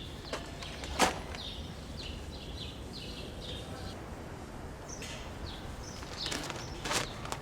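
Small bird chirping: a run of short, falling chirps, several a second, over a faint outdoor background. A sharp tap comes about a second in and a few more near the end.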